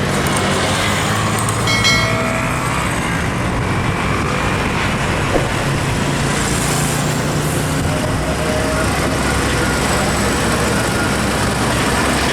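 Heavy trucks driving past on a road, their diesel engines running under steady tyre and road noise. A brief high-pitched squeal about two seconds in.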